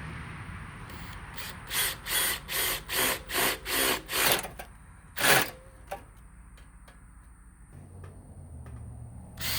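Power drill run in short trigger bursts, about six in quick succession and then one more, as a 3/8-inch bit starts a hole in a metal skid plate set on a block of wood.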